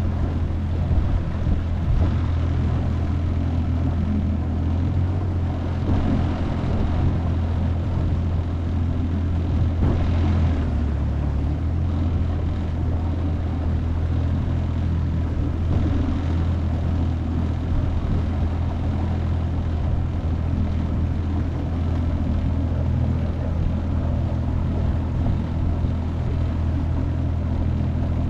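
25 hp Mercury four-stroke outboard motor running steadily under way, with a deep, even drone. Its note shifts briefly about ten seconds in.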